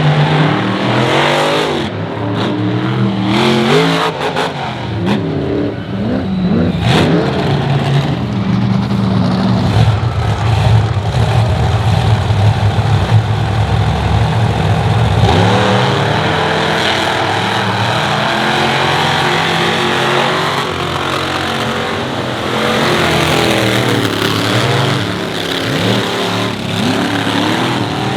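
Monster truck engines revving hard, the pitch climbing and falling again and again, with a stretch of steady heavy running about a third of the way through.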